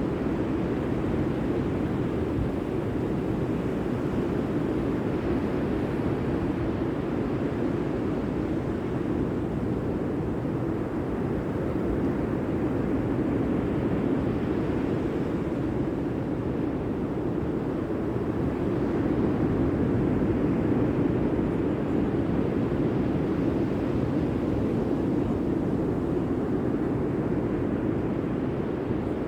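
Steady low rushing noise with a deep rumble, swelling slightly about two-thirds of the way through.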